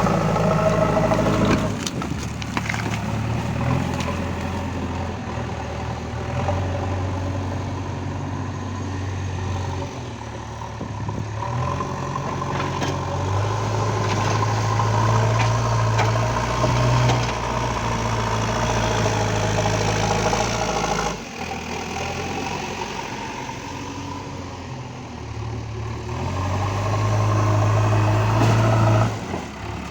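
JCB 3DX backhoe loader's diesel engine running under changing load, its engine speed stepping up and down several times as it works.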